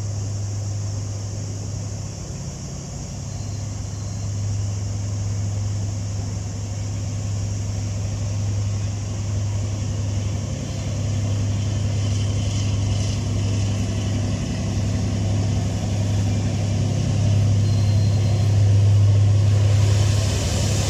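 A large engine running steadily with a deep, low hum, growing somewhat louder from about halfway and loudest near the end.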